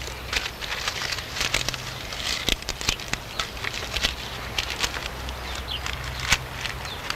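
Irregular tapping and scraping of manual work, a dozen or so short clicks over a low steady hum.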